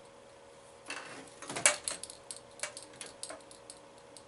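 A run of irregular sharp clicks and light clattering, loudest about a second and a half in, over a faint steady hum.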